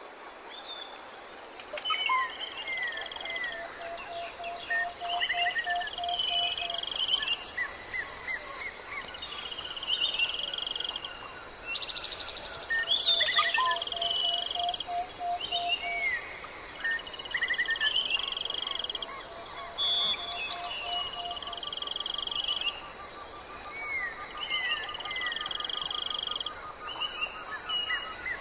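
Many birds chirping and calling over one another in quick repeated phrases. Steady pulsed trills run underneath.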